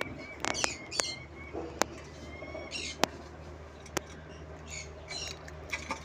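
Birds chirping and squawking in short calls, in several groups, with a few sharp clicks in between and a steady low hum underneath.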